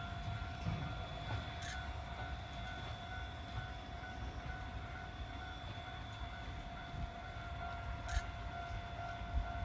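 Moka Railway steam locomotive: a low rumble with a steady high whine over it, and two short clicks, one near the start and one near the end.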